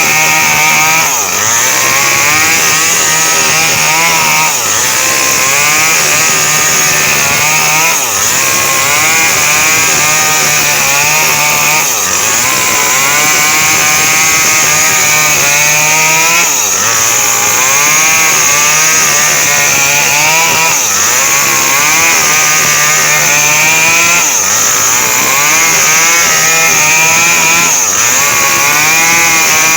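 Small two-stroke mini chainsaw running at high revs, cutting coconut palm wood. Its engine note dips briefly and picks back up every three to four seconds.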